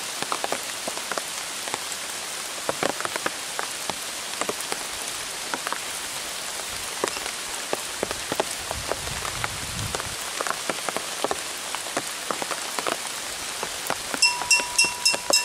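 Steady rain falling, with many separate drop hits ticking close by. Near the end comes a quick run of about five short, high beeps.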